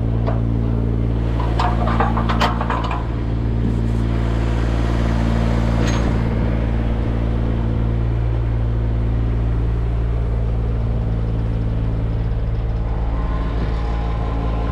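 An engine running steadily at an even pitch, with a short cluster of clanks and rattles about two seconds in.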